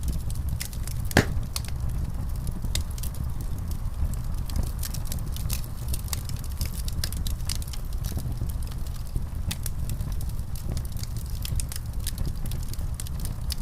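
Wood fire crackling in a fireplace: many small sharp snaps over a steady low roar, with one louder pop about a second in.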